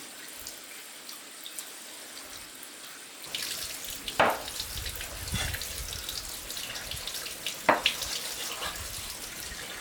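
Running water, as from a tap, splashing steadily and growing louder about three seconds in, with two sharp knocks about four and eight seconds in.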